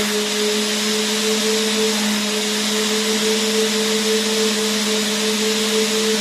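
Vacuum cleaner running continuously: a steady motor hum under a broad rush of air, with no change in pitch or level.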